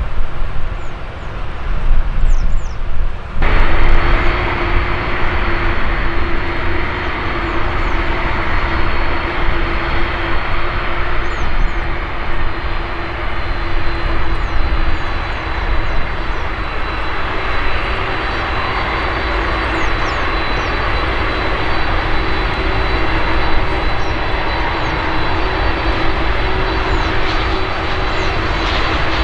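Jet airliner engines running, a loud, steady noise with a low hum and a high, thin whine over it. The sound changes abruptly about three seconds in, where the engine noise sets in fully.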